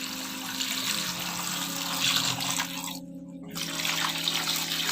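Water running from a tap into a sink, a steady splashing rush that stops for about half a second around three seconds in, then runs again.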